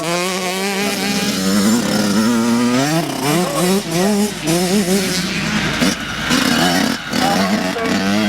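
Small two-stroke youth motocross bike engines (50cc/65cc classes) revving, the pitch climbing and dropping repeatedly as riders work the throttle and shift.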